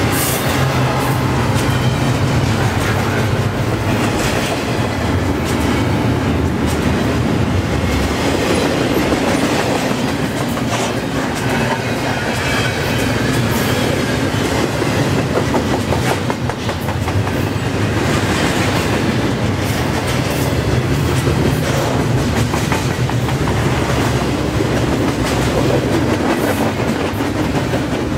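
Double-stack intermodal well cars of a long freight train rolling past close by: a steady rumble of steel wheels on rail, with a clickety-clack of wheels over rail joints.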